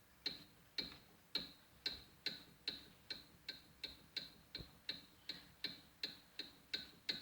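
Pliers being worked open and shut, their metal joint and jaws clicking about twice a second, each click with a short metallic ring, as the rusted pivot is loosened.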